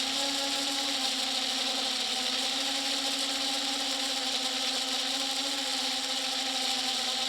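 A steady mechanical hum with a slightly wavering pitch, over a constant high hiss.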